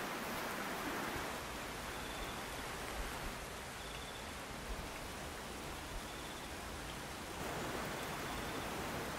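Steady rain falling outdoors, an even hiss with a few faint drips.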